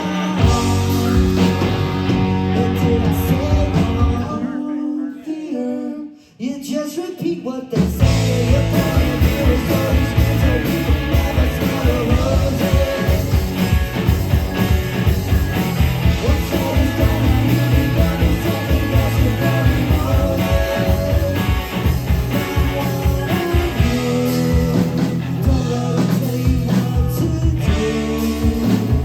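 Rock band playing live, with electric guitar and singing. The music drops away to a brief near-break about five seconds in, then the full band crashes back in around eight seconds.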